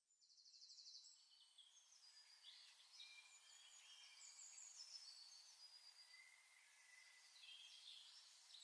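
Faint birdsong: several birds chirping and trilling over one another, fading in over the first second, with a fast rattling trill at the start.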